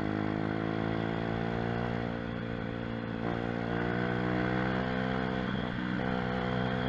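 Mini moto (pit bike) single-cylinder engine running steadily under way, easing off slightly about two seconds in and picking up again a second later.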